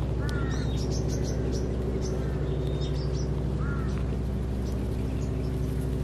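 Birds chirping and calling over a steady low machine hum. Short arched calls come about three times, with quicker high chirps between them.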